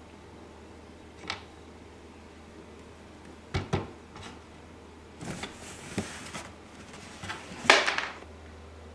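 Scattered light knocks and short scuffling rustles of cats moving about with a play toy on the floor, the loudest scuffle near the end.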